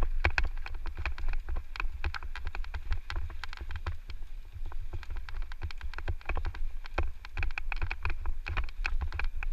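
Electric mountain bike rattling over a rough trail: a dense, irregular run of clicks and knocks from the bike's chain and frame, over a steady low rumble of wind on the microphone.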